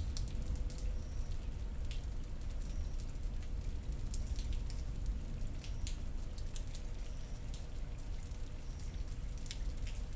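Steady thunderstorm rain, with single drops ticking sharply at irregular moments over a low, even rumble.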